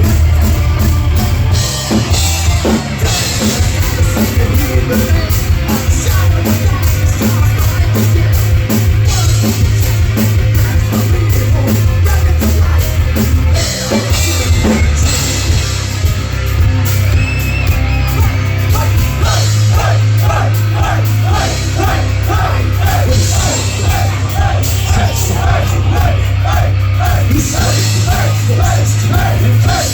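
A heavy rock band playing live and loud: drums, bass and guitars, with a fast repeating run of notes from about twenty seconds in.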